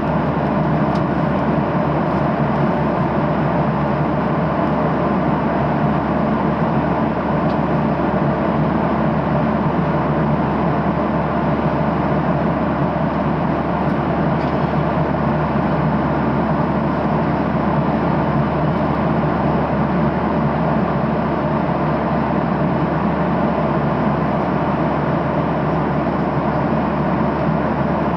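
Steady roar of a Boeing 737-800 airliner cabin in cruise flight: engine and airflow noise heard from inside the cabin, unchanging throughout, with a few faint ticks.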